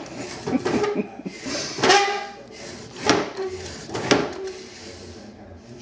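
A drawer being opened and knocked shut again and again: a sharp knock about once a second, three times, each with a brief pitched squeak or ring after it.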